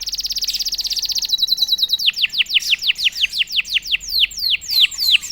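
Domestic canary singing loudly. It opens with a very fast trill for about two seconds, then runs into a series of repeated down-sweeping whistled notes, several a second.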